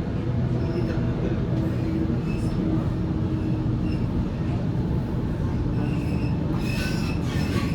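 Waratah A set electric train heard from inside a carriage while running on the track: a steady low rumble of wheels and bogies with a faint steady motor hum, and a few sharp clicks and a brief squeal near the end.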